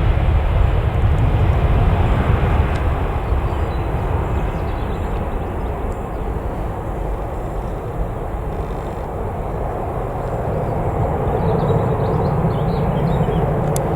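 Jet airliner's engines running at high power as it passes along the runway: a steady, rushing rumble that eases a little midway and builds again after about ten seconds.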